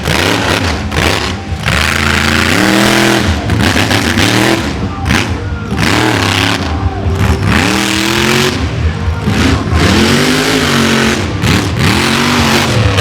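Monster truck engine revving hard over and over, its pitch swelling up and falling back every second or two.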